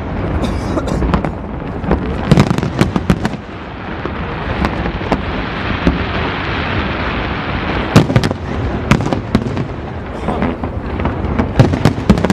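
Aerial fireworks shells bursting in quick succession: many sharp bangs, clustered a couple of seconds in, around two-thirds of the way through and again near the end, with a steadier noisy stretch between them.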